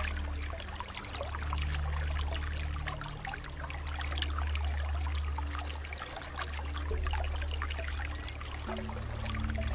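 Running water trickling and splashing steadily, over a low ambient drone of held tones that shift slowly every few seconds.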